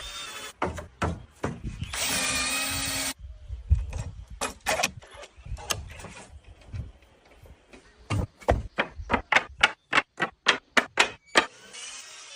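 Construction tool sounds: a power tool runs steadily for about a second, then a fast string of sharp knocks, about four a second, comes near the end.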